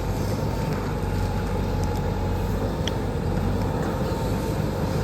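Tractor engine running steadily under a constant low drone.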